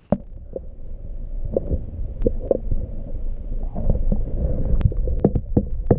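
Muffled, low rumbling water sound heard with the microphone submerged in a creek, broken by many short dull knocks.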